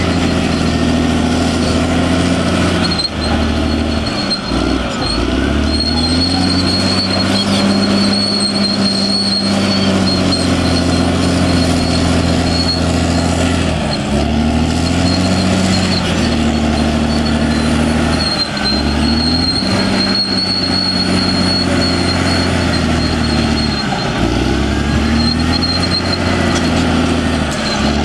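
Caterpillar D6R XL bulldozer's diesel engine running hard, its pitch dropping and climbing back several times as the load on it changes, over a steady high whine.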